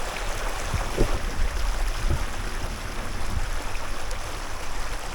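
Creek running fast and full with snowmelt runoff, a steady rushing noise, with a couple of brief low thumps about one and two seconds in.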